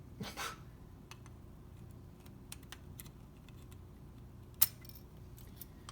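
Scattered light metal clicks and taps, with one sharper click about four and a half seconds in, from handling a piston ring compressor and piston while fitting the piston into the cylinder.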